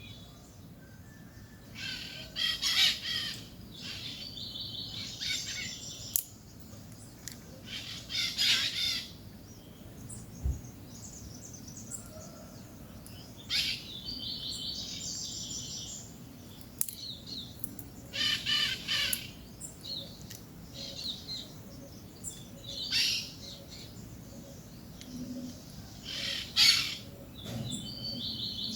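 Peach-fronted parakeets calling: short, harsh calls about every five seconds, with bouts of fast chattering between them.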